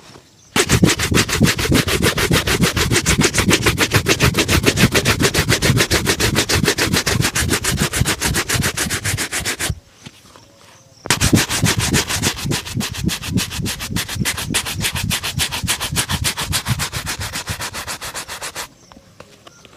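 Shoe-shine brush scrubbing a leather shoe in rapid back-and-forth strokes, a scratchy rhythmic rubbing. It comes in two long bouts of about nine and eight seconds with a short pause between.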